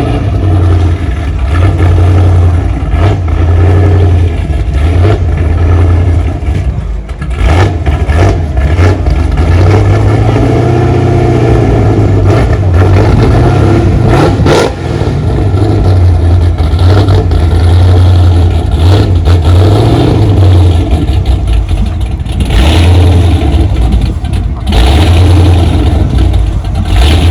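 Loud car engines running and revving, with a deep rumble that swells and eases several times.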